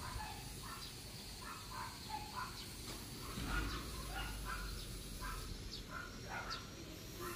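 Small birds chirping, short irregular calls several times a second, over a faint steady high whine. A low rumble rises and fades about halfway through.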